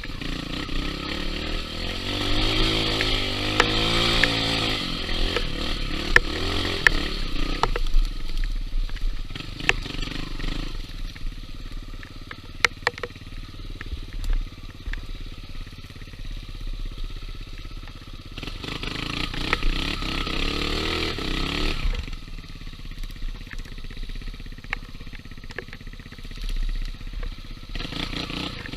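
Dirt bike engine riding a trail, its pitch climbing and dropping as the throttle is worked, with two stretches of harder revving: one a couple of seconds in, one about two-thirds through. Scattered sharp clicks and knocks from the bike and the ground.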